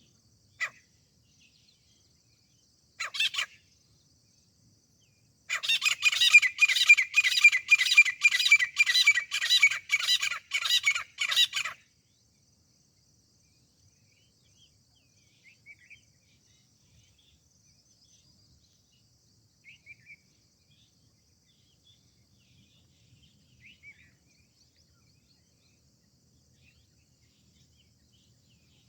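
Grey francolin calling: two short single calls, then a loud series of about a dozen harsh repeated notes at about two a second, lasting some six seconds. Faint chirps of other birds follow.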